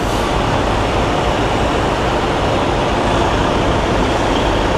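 Semi truck running as it pulls forward slowly, a steady loud noise without clear pitch.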